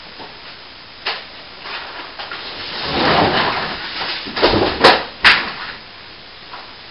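A click, then a scraping, sliding noise, then two sharp knocks about half a second apart, the loudest sounds here.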